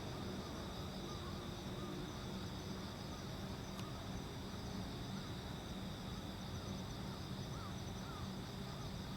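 Crickets and other insects chirping steadily over a constant low hum, with short chirps scattered throughout.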